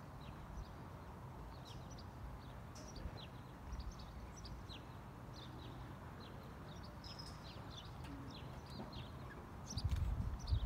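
Small birds chirping, many short high chirps that slide down in pitch, over a steady low outdoor rumble. Near the end a few louder low thumps come in.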